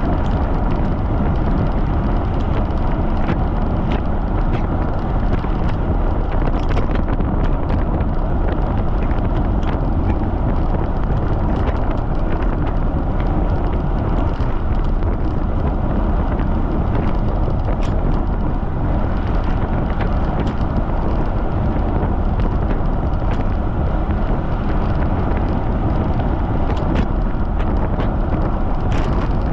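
Steady wind rumble buffeting a bicycle-mounted camera microphone during a fast ride in strong wind, with faint scattered ticks and rattles.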